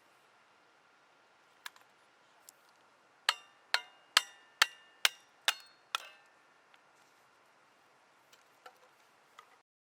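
Six sharp strikes about two a second, each leaving a brief metallic ring, with a few faint clicks before and after.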